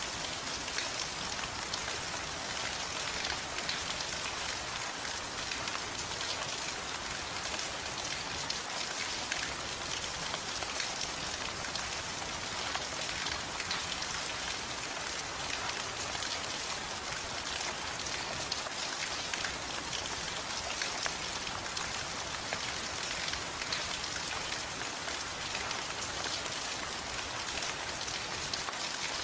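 Steady rain falling on a surface, an even hiss with fine crackling drops and no breaks or changes.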